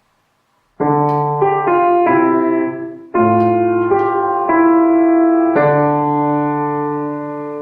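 Piano playing a slow, calm passage of sustained chords, about six of them, beginning just under a second in; the last chord is held and slowly dies away.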